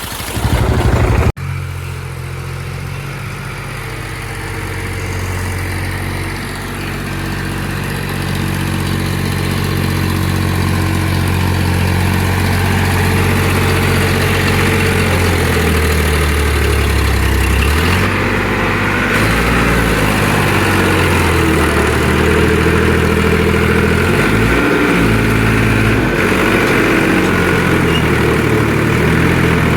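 Tractor diesel engine running steadily, its speed rising and falling a few times in the second half.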